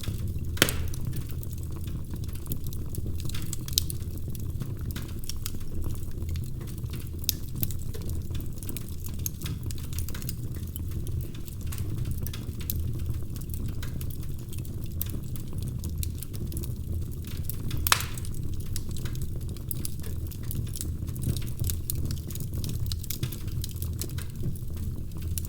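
Wood fire crackling: a steady low rumble scattered with sharp pops, the loudest just after the start and about eighteen seconds in.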